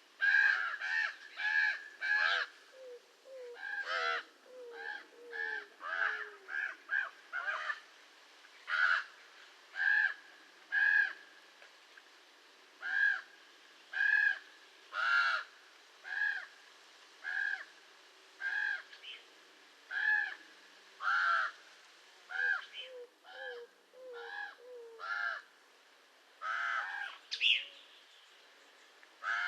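Common raven calling: a long series of short calls, about one a second, coming in quicker runs near the start. Fainter, lower gliding notes sound underneath twice, early and again near the end.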